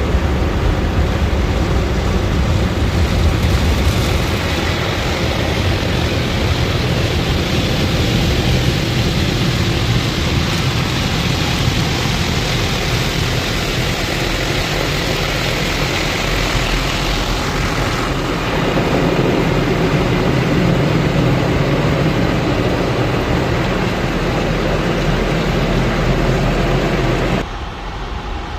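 Automatic car wash machinery running: a steady, loud rushing noise that changes in character about two-thirds of the way through and drops off suddenly just before the end.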